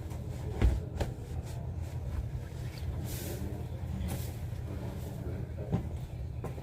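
Train carriage running with a steady low rumble, a few sharp knocks and two brief hisses in the middle.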